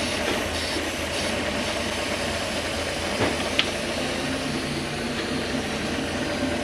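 Toyota 1UZ-FE quad-cam V8 idling steadily, with two brief sharp clicks a little after three seconds in.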